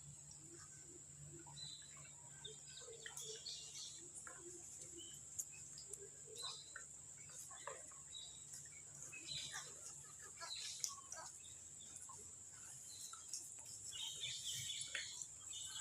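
Faint outdoor ambience with scattered short bird chirps, over a steady high-pitched tone and low background hum.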